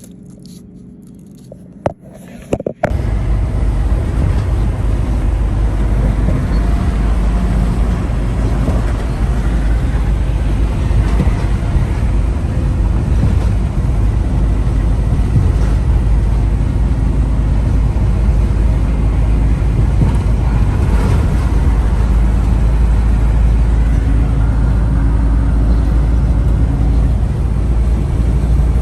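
Semi truck running, a steady loud low rumble of engine and road noise that starts suddenly about three seconds in, after a quiet stretch with a couple of clicks.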